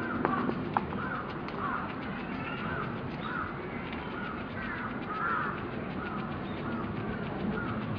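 A bird calling over and over, short arched calls at a steady pace of about one and a half a second. There are a couple of sharp clicks in the first second.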